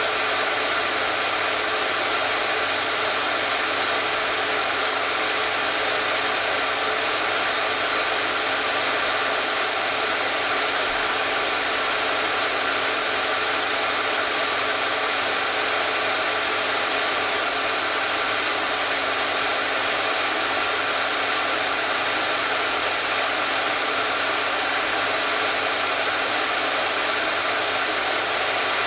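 Hair dryer running continuously, a steady airy whoosh with a low motor hum underneath that never changes.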